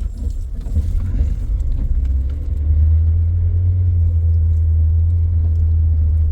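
Car on the move: a steady low road rumble that grows louder about three seconds in and holds.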